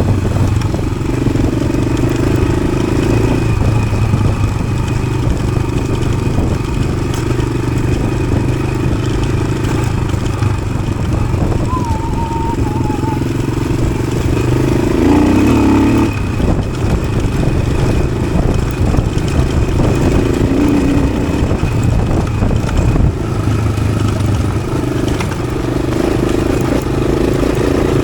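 1993 Yamaha XT600's single-cylinder four-stroke engine running through an Arrow exhaust. The engine note rises and falls with the throttle.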